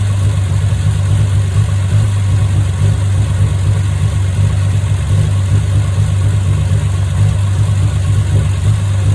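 Freshly rebuilt Triumph TR6 straight-six engine running steadily on its first run after the rebuild.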